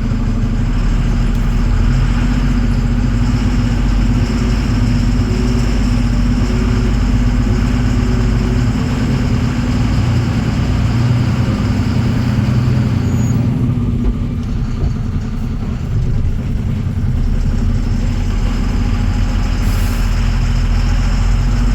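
Truck's diesel engine running steadily as the truck drives off, a constant low drone that eases slightly for a few seconds past the middle.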